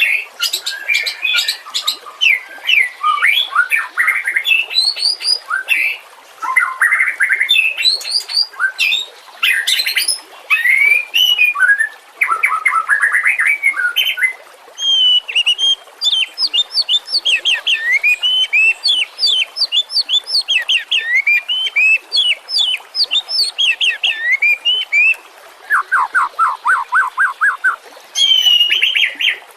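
White-rumped shama singing a long, varied song of clear whistles, quick trills and rapid repeated notes, phrase after phrase with short pauses between them.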